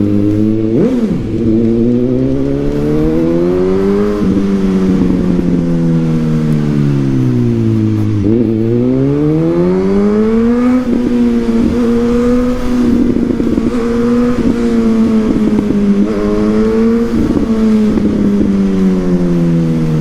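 Suzuki GSX-S1000's inline-four engine through a Yoshimura R11 aftermarket exhaust, under way: the revs climb for a few seconds, fall off for about four seconds, climb again about eight seconds in, then hold fairly steady with small rises and dips.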